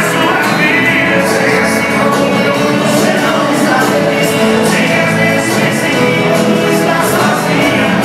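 Live sertanejo band playing with sung vocals, with cymbals keeping a steady beat.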